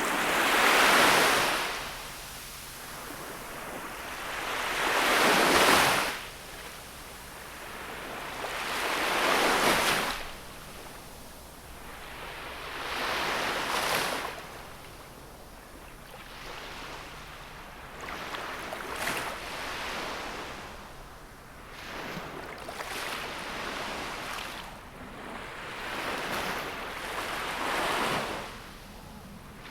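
Gentle sea waves washing onto the shore, each surging and ebbing about every four seconds. The first three are the loudest and the later ones are smaller.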